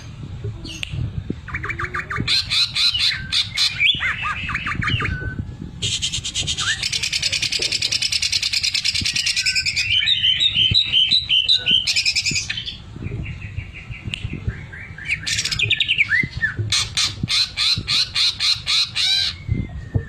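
Cucak ijo (green leafbird) singing a loud, varied song of fast rattling trills, buzzy runs and repeated short notes, the kind of song trained in with a sewing-machine imitation.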